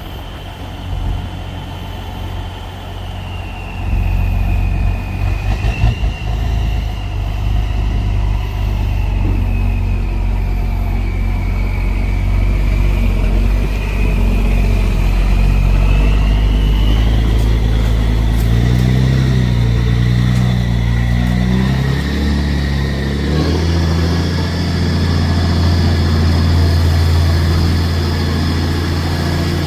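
Deuce-and-a-half military truck driving, its engine running with a high whine that rises and falls with speed and steps up sharply about 23 seconds in. A few knocks sound about six seconds in.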